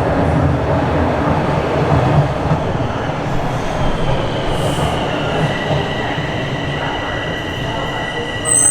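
Bombardier Toronto Rocket subway train running, with a dense rumble of wheels on track. From about four seconds in, a steady high-pitched wheel squeal comes in and holds, with a brief louder sound near the end.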